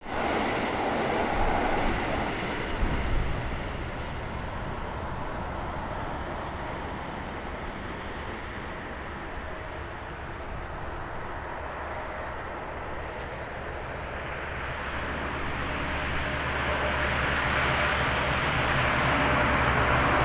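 Aircraft noise that swells steadily over the last several seconds, with a low engine drone coming in about three-quarters of the way through: a Cessna 172S Skyhawk SP's four-cylinder piston engine and propeller drawing nearer.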